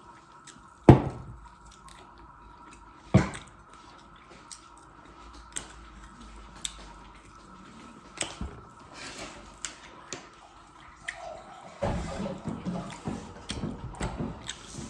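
A person eating close to the microphone. There are two sharp knocks about one and three seconds in, then scattered small mouth clicks, and chewing that gets busier near the end. A faint steady tone runs underneath.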